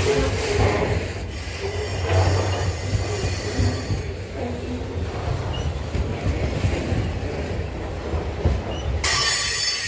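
Loaded grain freight train wagons rolling past on the rails, with a continuous low rumble and wheels squealing against the rails. A louder, high-pitched screech sets in near the end.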